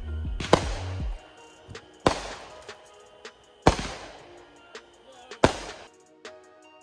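Consumer fireworks going off: four sharp bangs at an even spacing of about a second and a half, each trailing off quickly. Near the end the bangs stop and music with a drum beat takes over.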